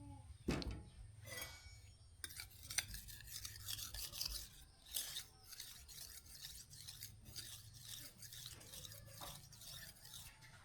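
Quick scraping or rubbing strokes, many to the second, starting about two seconds in after a couple of single sharper scrapes.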